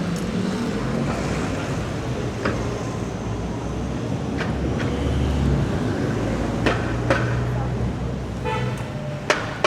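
City street traffic passing close: motor vehicle engines rumbling, louder around the middle, with scattered clicks and a brief car horn toot near the end.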